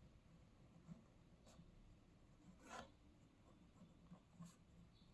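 Faint scratching of a pen writing on paper, in a few short strokes, the loudest about two and a half seconds in.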